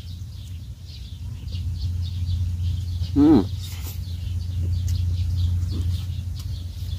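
Small birds chirping over and over, with a steady low hum underneath. A man gives one short voiced murmur about three seconds in.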